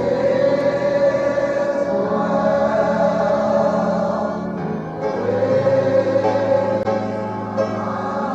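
Congregation or choir singing a slow hymn with long held notes, the chord changing about five seconds in.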